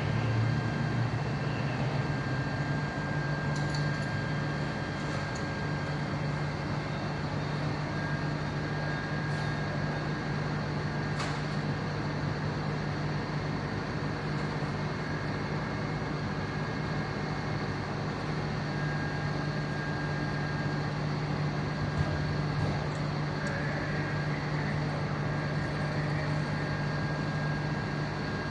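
Fire truck engine idling with a steady low hum.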